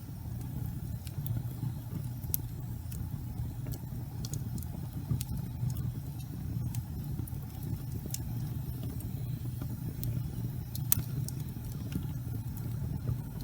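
Fireplace fire burning with a steady low rumble of flame and scattered crackles and pops, one louder pop near the end.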